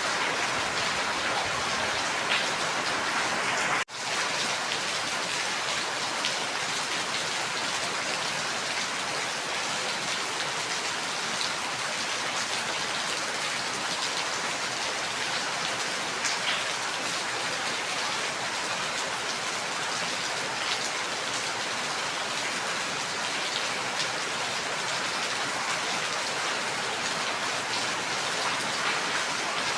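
Steady heavy rain falling, a dense even hiss with scattered drop ticks. About four seconds in the sound cuts out for an instant and swells straight back.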